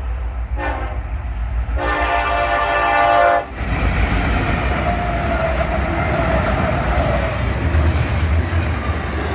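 Diesel freight locomotive's air horn sounding a short blast, then a longer one, the close of a grade-crossing signal. The horn then cuts off and the loud, steady rumble and rail noise of the train going by takes over.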